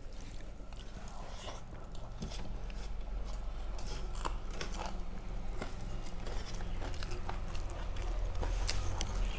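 Close-up eating sounds: a person chewing and biting food, with scattered small clicks and crunches of the mouth. A steady low hum runs underneath.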